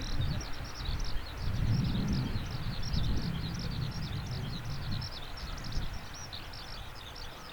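Continuous high chirping of small birds over a low rumble that swells about a second and a half in and fades after about five seconds.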